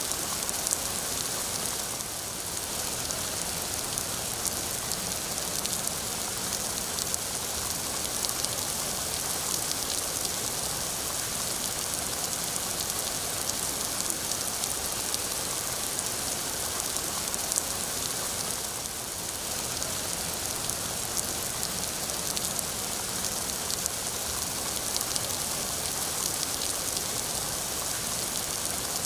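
Steady rain falling, a dense hiss of drops with many fine individual drop ticks on a surface.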